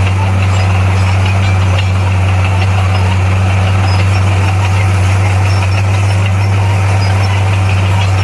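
Diesel engine of a heavy earthmoving machine running steadily at constant speed: a loud, deep hum that never changes in pitch.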